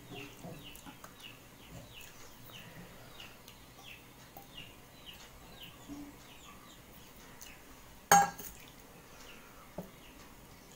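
A bird calling over and over, short falling chirps about two a second. About eight seconds in, a single sharp clink of dishware rings out, the loudest sound here.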